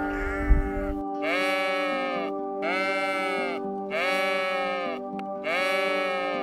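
Sheep bleating about four times, each bleat about a second long and evenly spaced, over steady background music. A low rumble and a brief thud come in the first second.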